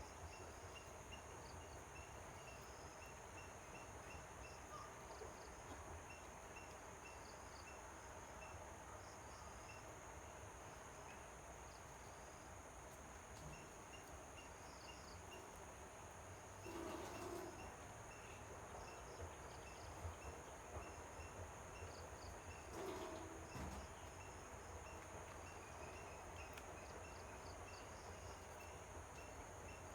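Faint outdoor ambience of insects: a steady high drone with short chirps repeating in runs. Two brief, slightly louder noises come a little past halfway, a few seconds apart.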